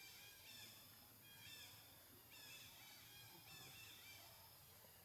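Faint outdoor ambience with a bird calling in the background: short, high chirping phrases repeated about once a second.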